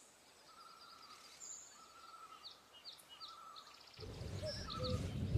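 Faint birdsong, a few short chirps and warbling calls, over quiet outdoor air. About four seconds in, a low rumbling noise comes in and grows louder.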